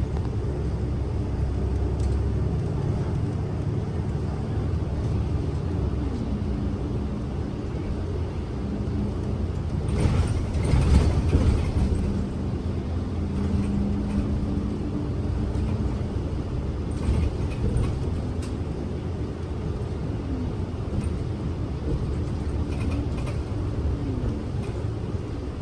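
Interior of a Kyoto City bus under way: a steady diesel engine hum and road rumble, the engine note rising and falling a little. The rumble grows briefly louder about ten seconds in.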